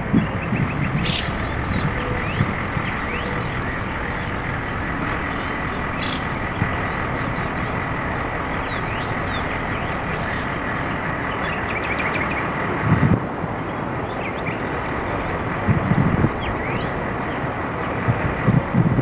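Steady machinery running noise with a constant high whine, broken by a few short low bumps in the second half.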